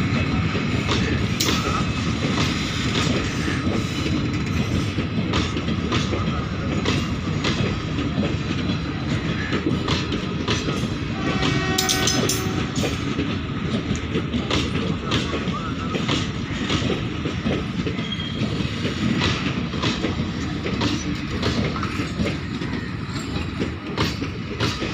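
Indian Railways passenger coaches rolling past close by, their wheels clattering over rail joints in a steady run of clicks over a continuous rumble.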